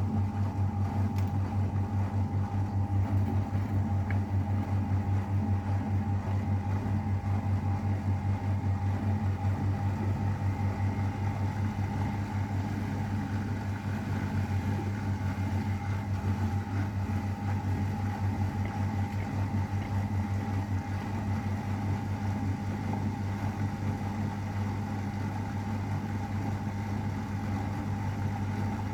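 AEG Öko_Lavamat 693 washing machine running through its 60°C wash with a steady, low electrical hum and a fast fluttering drone, easing slightly about halfway through.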